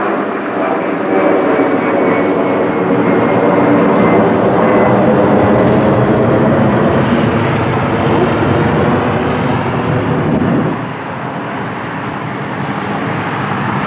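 Jet airliner engines running loud and steady as the aircraft passes close by, with a whine of several tones over the roar. The noise falls away sharply about eleven seconds in.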